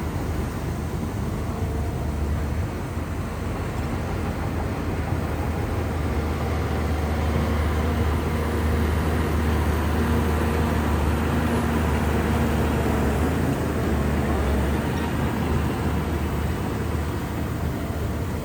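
Shantui bulldozer's diesel engine running steadily under load. It swells louder about a third of the way in and eases back after about three-quarters.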